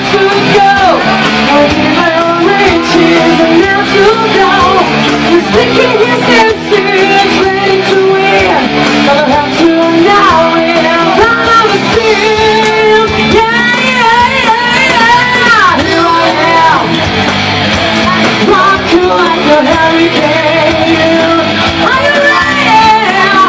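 Live rock band playing an instrumental section of a hard-rock song, loud, with a lead electric guitar bending notes over bass and drums.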